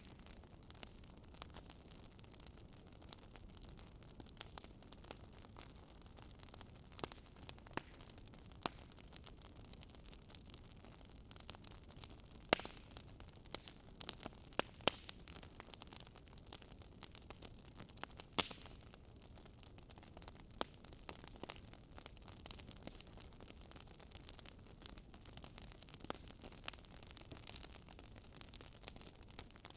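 Wood fire crackling faintly: irregular sharp pops and snaps over a low steady hiss, with a few louder pops around the middle.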